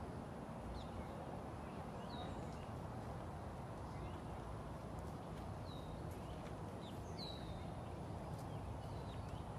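A handful of short, high, falling bird chirps, scattered over a steady low outdoor rumble.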